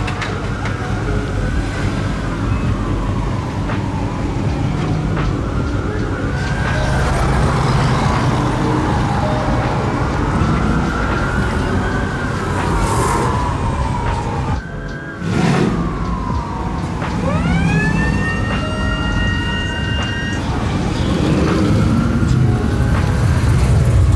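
Police car siren wailing, its pitch rising and falling slowly every few seconds over the low rumble of engines. A little past halfway a second, higher siren tone swoops up and holds for a few seconds.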